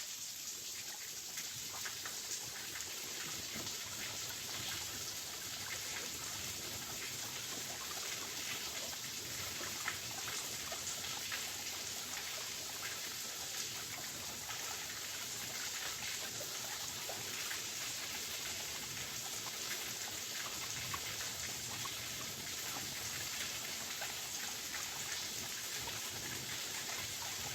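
Waterfall: a steady, unbroken rush of falling water, flecked with many small splashes and drips.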